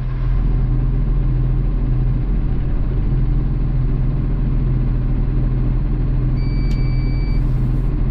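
Diesel engine of a garbage truck running steadily at idle, with a deep, even drone. A single high electronic beep lasts about a second, roughly six and a half seconds in.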